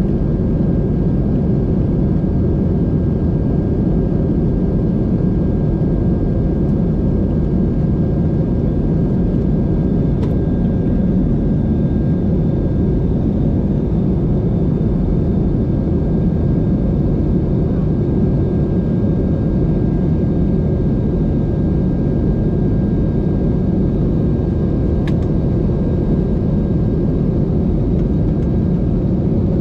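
Steady low rumble of a vehicle in motion, with a faint constant whine above it and two brief clicks, one about a third of the way in and one near the end.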